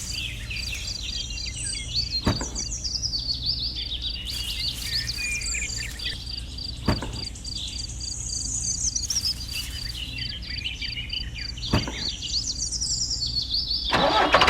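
Birds chirping over a steady, rapidly pulsing insect trill, with a low steady hum underneath and three sharp clicks spaced a few seconds apart.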